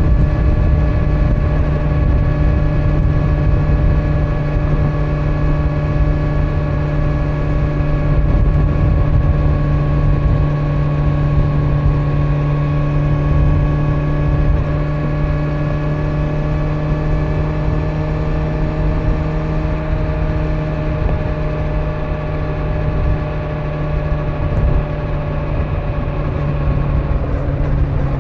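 Kawasaki Z900's 948 cc inline-four engine running at a steady cruising speed on stock exhaust, its pitch easing slightly near the end, with wind and road noise underneath.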